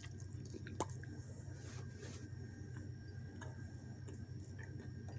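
Quiet chewing of lemon chicken with the mouth closed: faint wet mouth clicks, one sharper click about a second in, over a steady low hum.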